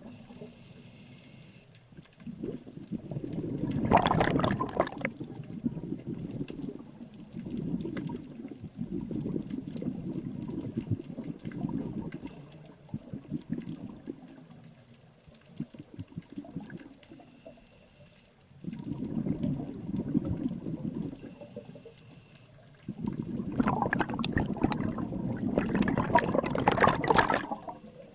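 Scuba diver's exhaled bubbles from a regulator, bubbling past underwater in repeated surges a few seconds long with quieter pauses between breaths; two surges, about four seconds in and near the end, are louder.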